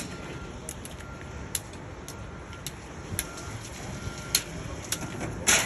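A machine running with a steady low rumble and sharp, irregular clicks or knocks about once or twice a second, the loudest just before the end. It sounds like an industrial washing machine at work.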